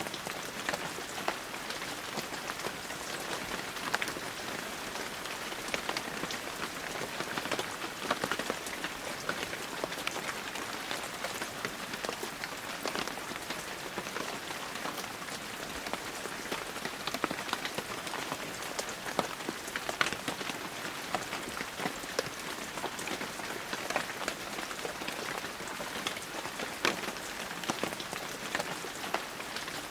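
Heavy rain falling steadily, with many sharp, close drop hits ticking through the even hiss.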